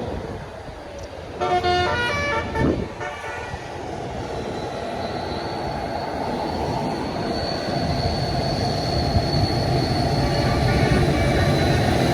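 A multi-tone musical air horn (basuri) plays a short run of notes about a second and a half in, lasting under two seconds. Then a heavy vehicle's diesel engine grows steadily louder as it approaches, with a thin high whine over it.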